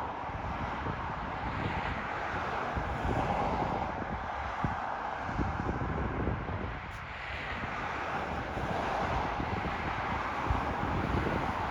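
Wind buffeting the microphone in uneven low thumps over a steady rushing noise.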